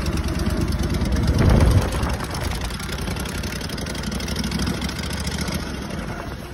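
Tractor engine running at a steady idle, with a brief louder surge about a second and a half in, easing off near the end.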